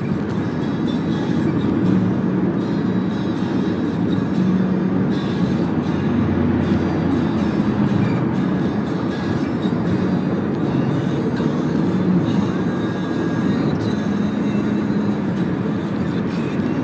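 Steady road and engine noise inside a moving Toyota Camry 2.4, with a low hum that comes and goes.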